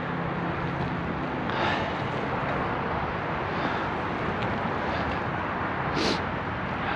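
Steady rushing background noise, with a brief sharp hiss about six seconds in.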